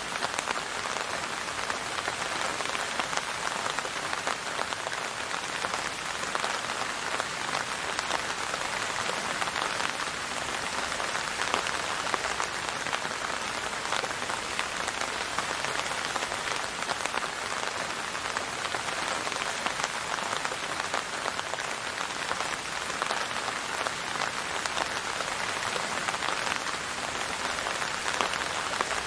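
Steady rain falling, a dense patter of many drops with no letup.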